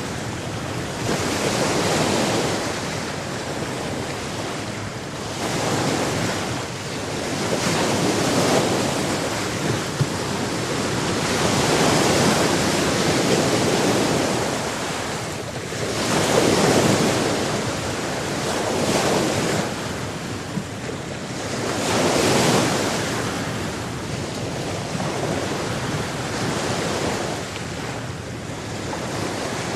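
Sea waves breaking and washing ashore, rising and falling in repeated surges every few seconds.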